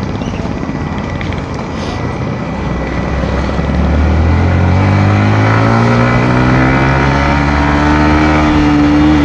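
Yamaha MT-15's single-cylinder engine pulling under acceleration on the road. Its exhaust note rises in pitch and grows louder from a few seconds in, then holds nearly steady. Before that there is a steady rush of road noise.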